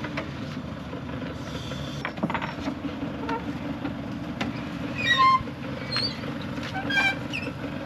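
A vehicle engine running steadily in the background, with short high-pitched squeaks about five seconds in and again near seven seconds, the first being the loudest.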